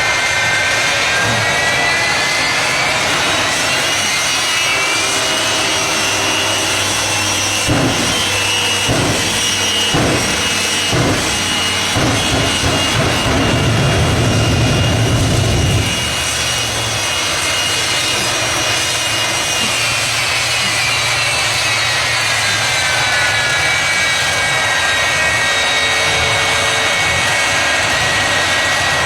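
Jet engines of a jet-powered truck whine as they spool up, hold a high steady whine, then spool back down. A series of sharp pops comes about eight to twelve seconds in, followed by a deeper rumble that swells for a few seconds.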